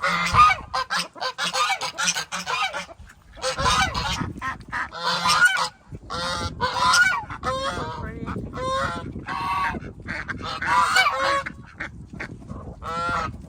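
Several geese honking over and over, their calls overlapping almost without a break.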